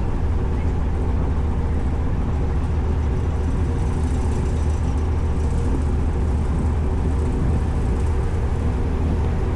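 Steady low drone of a ferry's engines while under way, even and unchanging throughout.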